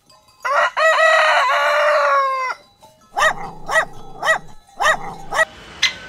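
A rooster crows once, a long cock-a-doodle-doo of about two seconds. A chicken then clucks in five short calls, about two a second.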